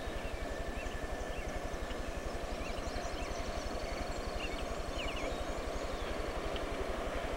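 Songbirds chirping, with short rising and falling notes, over a low, rapid, steady throbbing rumble.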